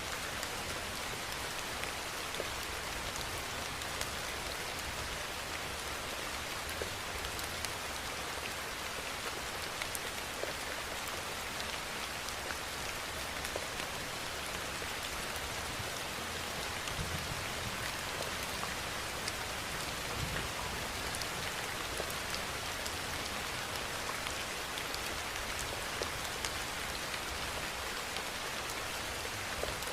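Steady rainfall: an even, dense hiss with many single drops ticking through it.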